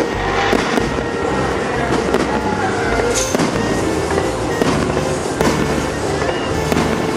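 Aerial firework shells bursting in a string of sharp bangs, heard over a music soundtrack.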